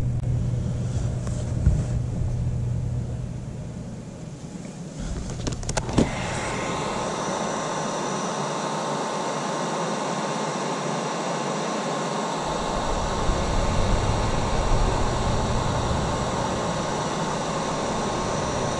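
A low rumble fades over the first few seconds. About six seconds in there is a click, then a steady rushing hiss with a faint whine from a handheld heating tool held on a wiring splice.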